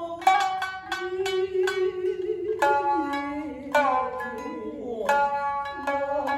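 Shinnai-bushi shamisen accompaniment: the main shamisen and the higher-tuned second shamisen (uwajōshi) plucking a run of sharp notes. In the middle a few notes are left to ring, about a second apart.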